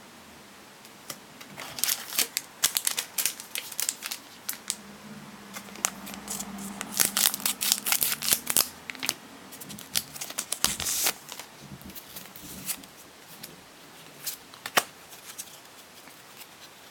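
A Pokémon TCG booster pack's foil wrapper being torn open and its trading cards handled: a run of crinkles, rips and card clicks, busiest in the middle and thinning out near the end.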